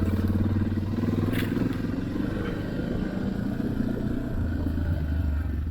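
Suzuki DR650's single-cylinder four-stroke engine running steadily, with a short click about a second and a half in.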